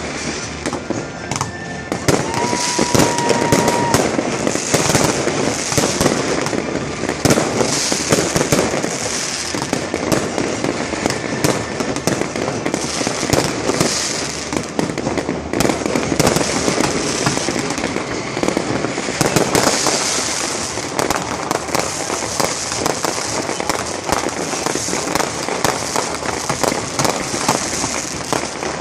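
Fireworks display: a dense, continuous run of crackling and bangs, with waves of high crackling effects every second or two.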